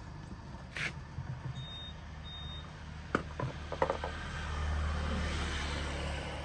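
AQUA washing machine control panel beeping twice, then a few clicks, before the machine starts up with a steady low hum and a hiss that swells about four seconds in.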